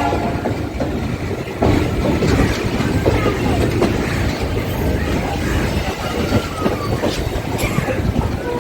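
Indian Railways passenger train running along the track: a steady rumble and rattle of wheels and coaches with scattered knocks, growing louder about a second and a half in.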